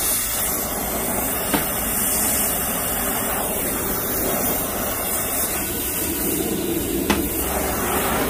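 Steady hiss of a gas torch flame blowing, with a couple of faint clicks about a second and a half in and again near the end; it cuts off suddenly.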